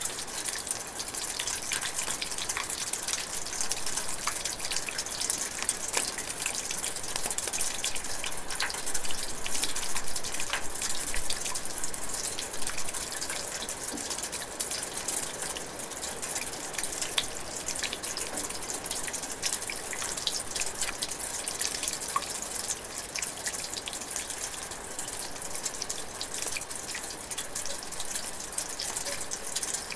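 Light rain falling steadily, a dense hiss of drizzle with many individual drops pattering and dripping throughout.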